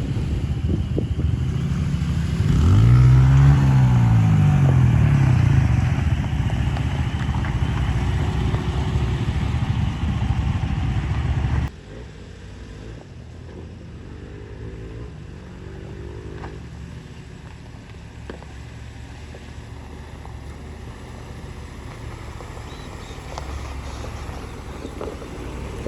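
Gas V8 pickup truck engine running off-road, revving up and back down a few seconds in. About halfway through, the sound cuts suddenly to a quieter engine.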